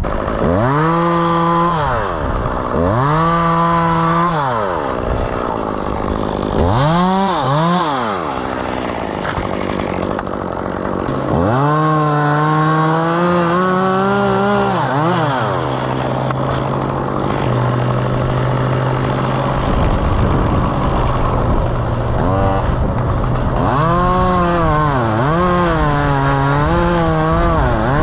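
Two-stroke chainsaw revving in short bursts, then a longer run of several seconds. It settles into a steady idle in the middle and revs up and down again repeatedly near the end.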